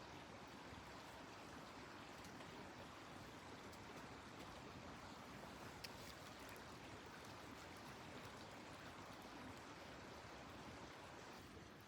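Faint, steady rushing noise with one small click about six seconds in.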